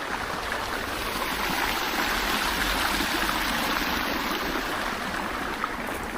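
Steady rush of a fast-flowing stream, swelling slightly in the middle.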